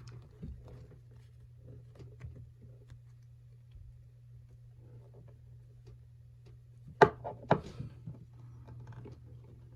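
Metal pieces of a trick bolt puzzle clicking and knocking together as they are handled and fitted back onto the bolt, with scattered light clicks and two sharper clicks about half a second apart roughly seven seconds in.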